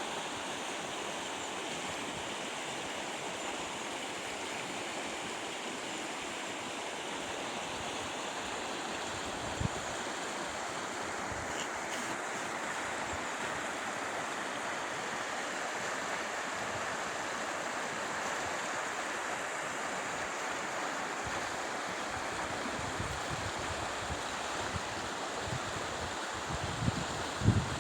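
Steady rushing noise with no tone in it, with a single knock about ten seconds in and a few low thumps near the end.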